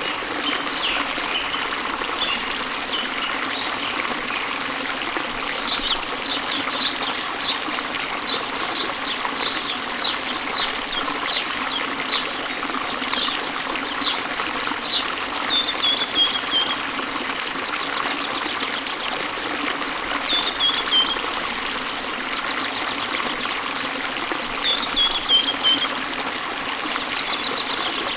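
Steady rush of a waterfall's flowing water, with songbirds singing over it: a run of short high notes repeated about twice a second in the first half, then a few short falling trills later on.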